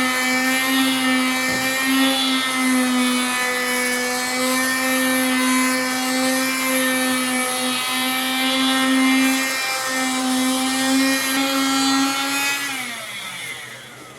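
Electric power tool motor running at a steady high speed, then switched off near the end and winding down, its pitch falling as it spins down.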